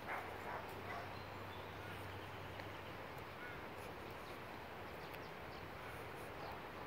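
Outdoor nature ambience: a steady background hiss with two or three short animal calls in the first second and a few faint high chirps after, over a faint low hum that fades out about three seconds in.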